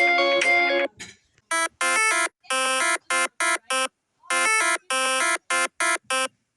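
A plucked-sounding instrumental tune ends just under a second in. It is followed by a short melody of buzzy electronic beeps, like a ringtone, that start and stop sharply at several pitches in two phrases of about five and six notes.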